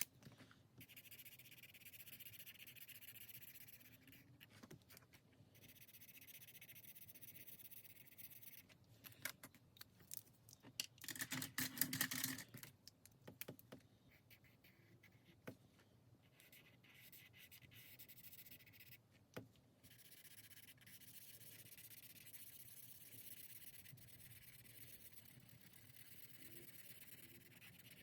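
Faint rubbing and scratching of colouring-in on a paper challenge sheet, in long stretches of steady back-and-forth strokes. A brief cluster of louder clicks and knocks comes about twelve seconds in.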